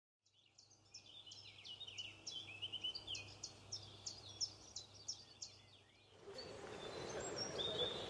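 Faint chorus of small birds chirping and twittering: many quick, high, falling notes. About six seconds in, it gives way abruptly to a steady outdoor rush with a few distant bird notes.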